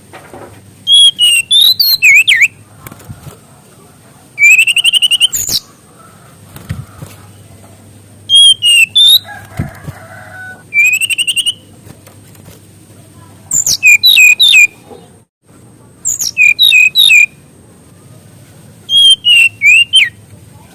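Fulvous-chested jungle flycatcher (SRDC) singing in loud phrases of rapid, sharply sliding whistled notes. There are about seven phrases, each roughly a second long and a second or two apart.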